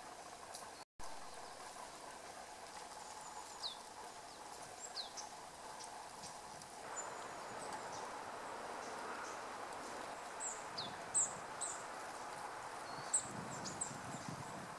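Short, thin, high calls of small birds, scattered and more frequent in the second half, over a steady background hiss of outdoor noise, with a brief drop-out to silence about a second in.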